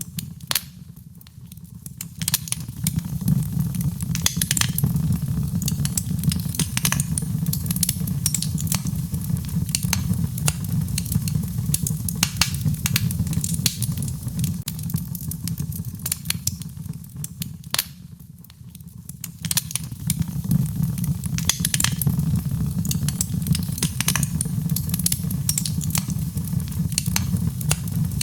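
Wood fire crackling with frequent sharp pops over a low, steady rumble, with gentle rain mixed in. The sound eases off briefly twice, about a second in and again just past the halfway point.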